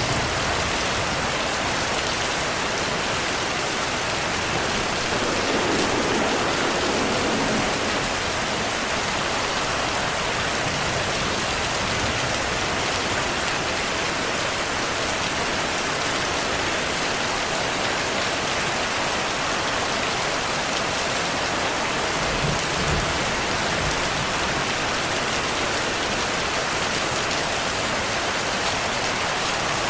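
Steady rain, with low rumbles of distant thunder swelling twice, about six seconds in and again past twenty seconds.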